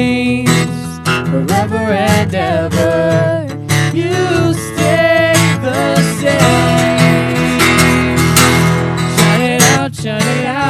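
A live worship song played by a band led by strummed acoustic guitar, with a sung vocal line.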